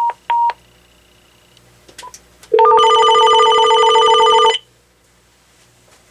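AT&T 7720 cordless phone beeping twice, then its electronic ringer giving one warbling ring about two seconds long that cuts off sharply.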